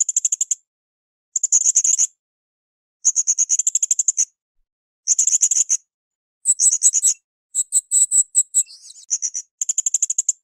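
Blue-crowned hanging parrot (srindit) calling: short bursts of rapid, very high-pitched chattering notes, repeated every second or two. A little past the middle, a different run of higher, more spaced notes ends in a short downward slur.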